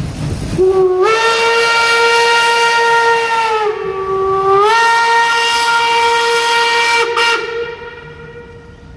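Steam locomotive whistle blowing one long blast. It starts low and slides up in pitch, dips briefly about four seconds in, then holds its note and fades away near the end.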